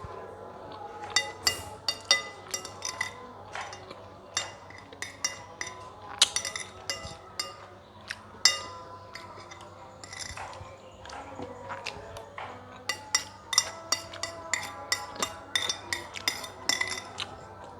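A spoon clinking and scraping against dishes while eating, in irregular bursts of sharp ringing clinks, with busier clusters near the start, around the middle and toward the end.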